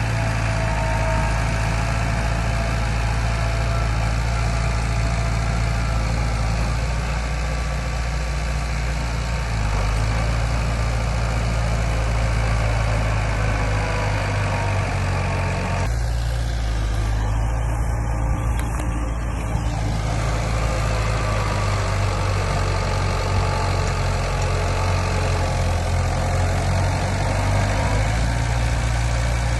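The diesel engine of heavy earthmoving machinery running steadily at a low, even pitch. A little past halfway the higher part of the sound falls away for a few seconds, then returns.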